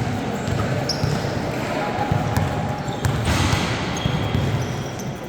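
Indoor basketball game: a hubbub of shouting and chattering voices in an echoing gym, with a ball bouncing on the court.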